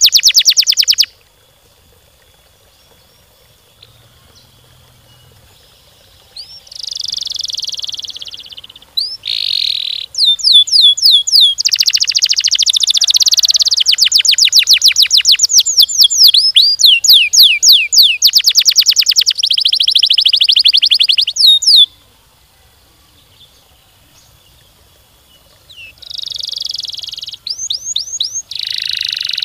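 Domestic canary singing in long rolling trills of rapid, closely spaced repeated notes, broken by two pauses of a few seconds.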